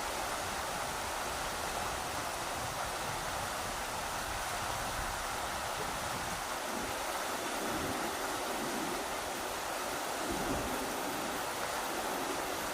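Rushing river water, a steady, even rush, with gusts of wind rumbling low and unevenly beneath it.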